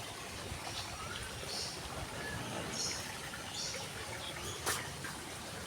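Quiet outdoor ambience of trickling water with a few short, high bird chirps, and one sharp click about four and a half seconds in.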